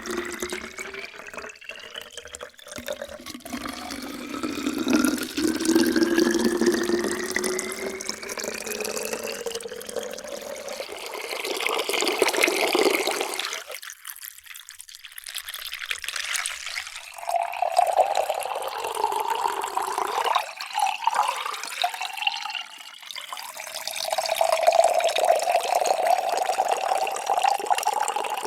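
Water pouring into a container, its ringing pitch rising slowly as the vessel fills. After a short lull about halfway, another pour starts and its pitch again creeps upward.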